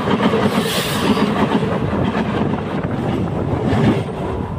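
A train's wagons pass right beside the track, with a steady din of wheels rolling on the rails and bogies rattling. The noise begins to fall away near the end as the last wagon clears.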